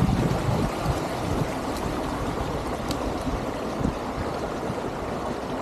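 Steady rush of a mountain stream flowing over rocks, close by.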